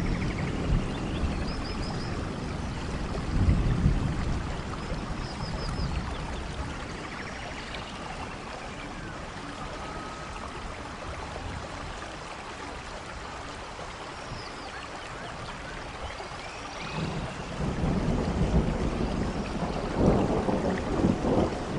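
Steady rainforest rain with thunder rumbling low, swelling briefly a few seconds in and again more strongly near the end. A few faint high chirps sit over the rain.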